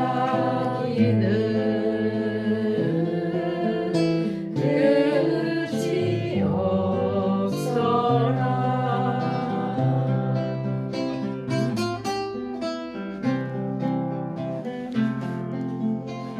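A woman singing a slow song to acoustic guitar accompaniment, with strummed chords growing more prominent in the second half.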